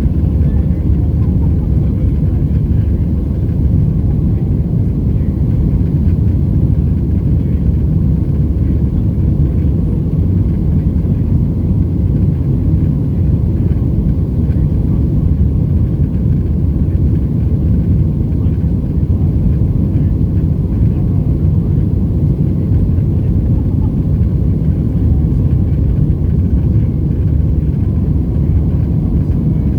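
Steady low rumble of a Boeing 737-700's CFM56 jet engines and airflow, heard from inside the passenger cabin, holding even throughout.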